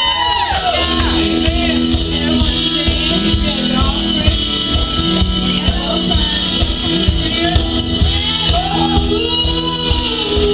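Live gospel praise-and-worship music: a band playing steady sustained chords over a low beat, with voices singing.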